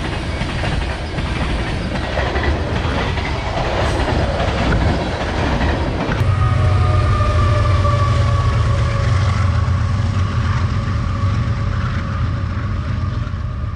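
Train rolling past: a steady rattle of wheels on rails, with a deep drone that grows louder about six seconds in.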